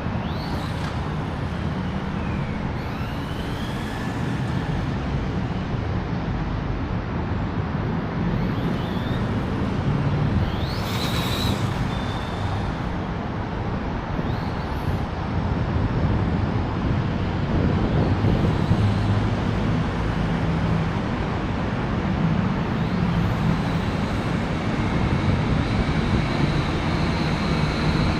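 Steady road traffic noise with a low rumble throughout, a few short rising and falling whines, and a couple of brief passing hisses, one about eleven seconds in and one near the end.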